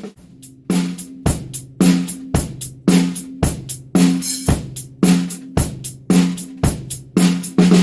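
Drum kit playing a steady groove, with a hit about twice a second: snare drum strikes that ring on with a clear tone, under bass drum and hi-hat, as a snare drum sound test.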